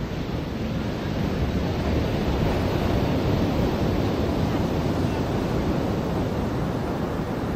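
Ocean surf: waves breaking and washing up the beach, swelling about a second in and easing slightly toward the end.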